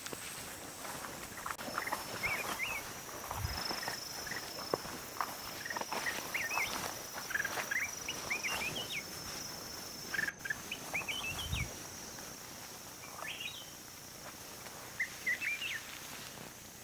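Small birds chirping in short, scattered calls over a steady high insect drone, with a few faint clicks and rustles.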